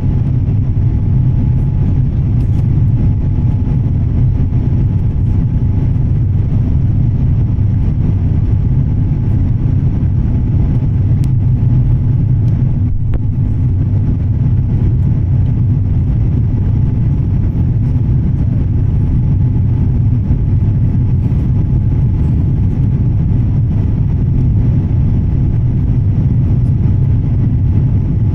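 Airbus A350 cabin noise recorded with the phone pressed against the window: a steady, loud, low rumble of the Rolls-Royce Trent XWB engines and airflow, with a faint steady whine above it.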